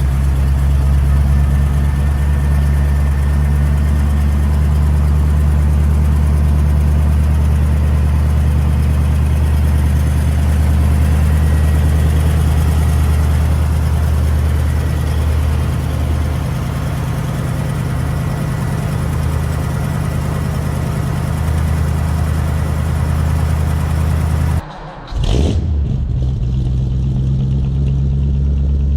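1951 Lincoln Cosmopolitan's flathead V8 idling steadily with a deep, even rumble shortly after a cold start. About 25 seconds in, the sound briefly drops out with a short sweeping glitch, then the same idle carries on.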